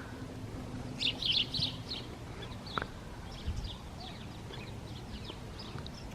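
A flock of birds chirping: a dense burst of overlapping chirps about a second in, then scattered chirps, with a single sharp click near the middle.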